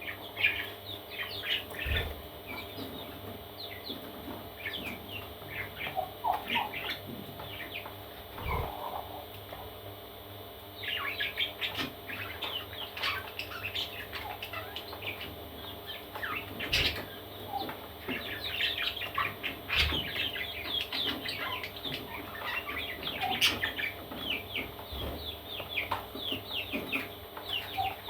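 Parrot chicks chirping: many short, high calls in quick clusters, with a few lower calls and occasional soft knocks.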